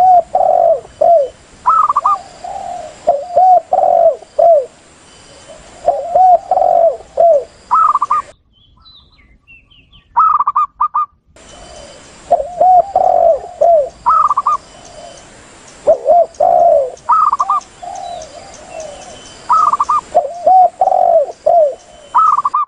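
Recorded lure calls of spotted doves cooing in low, repeated phrases, mixed with higher, shorter calls of zebra doves. The calls break off briefly about eight seconds in and then resume.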